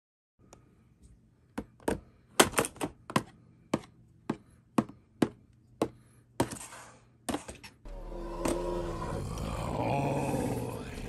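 Sharp plastic clicks and snaps, about a dozen spread irregularly over several seconds, as the parts of a transforming Megatron action figure are moved and locked into place. Music starts near the end.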